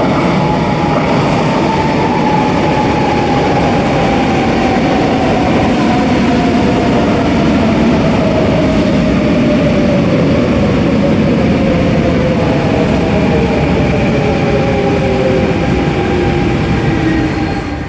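RER A electric commuter train slowing on the rails: the whine of its traction motors falls steadily in pitch over a loud rumble and hiss of wheels, as it brakes to a stop.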